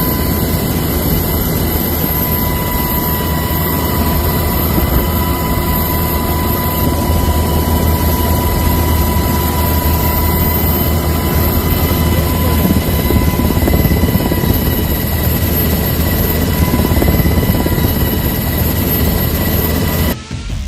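Helicopter running steadily: a loud continuous rumble with a constant high whine over it, cutting off abruptly near the end.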